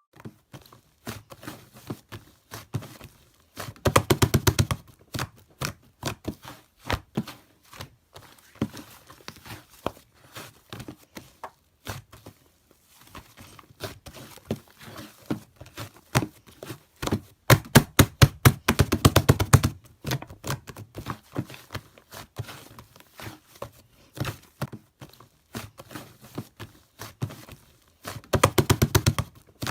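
Irregular sharp clicks and taps, with three louder bursts of rapid crackling: about four seconds in, around eighteen seconds in, and near the end.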